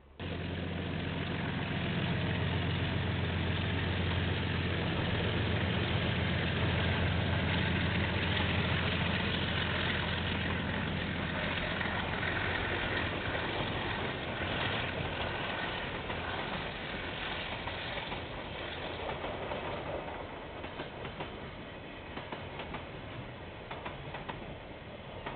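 Diesel freight train passing: the locomotive's engine drone is strongest for roughly the first half, then fades as the wagons roll by with a steady clatter of wheel clicks over the rail joints.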